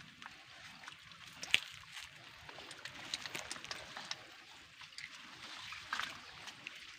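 Shallow water sloshing and trickling, with scattered small clicks and splashes and one sharp click about a second and a half in.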